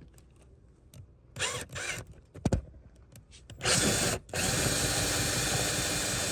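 Power drill turning a double-ended screw extractor bit in reverse to back out a stripped screw. A few short knocks come first. The drill starts a little past halfway, stops for a moment, then runs steadily.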